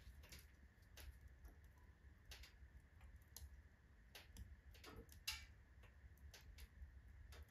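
Wood fire of alder and oak logs crackling faintly in a fireplace stove: irregular small pops and ticks, with a sharper pop about five seconds in.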